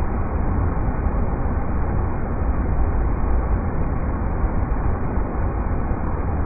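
River rapids running: a steady, unbroken rush of water with most of its weight in a deep rumble.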